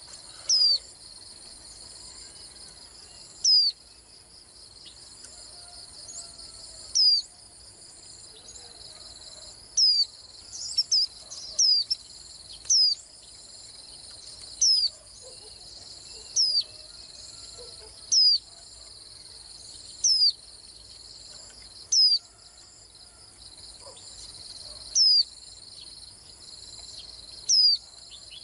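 Japanese white-eye (green white-eye) giving short, sharp chirping call notes, one every two seconds or so with a quick cluster of several about ten to thirteen seconds in. Underneath runs a steady, shrill insect drone.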